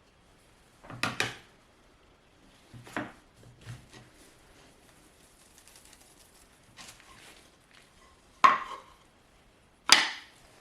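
Hard objects knocking and clattering as they are handled and set down: about six separate knocks, the loudest two near the end.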